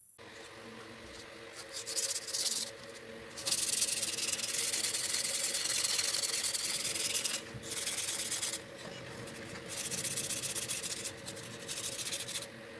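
Sanding on a part of an old table saw being restored: abrasive rubbing in several passes, the longest about four seconds, over a faint steady hum.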